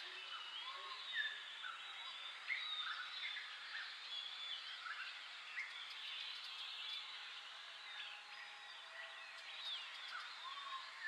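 Several birds chirping and calling in short rising and falling whistles, over a faint steady hiss of outdoor background noise.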